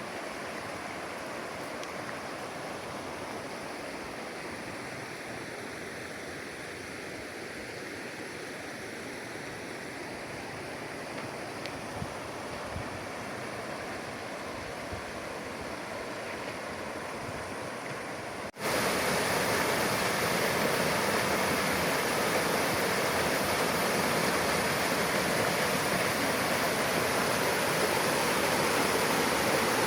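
Shallow river water flowing and burbling steadily over stones. About two-thirds of the way through it cuts abruptly to a louder, fuller rush of water.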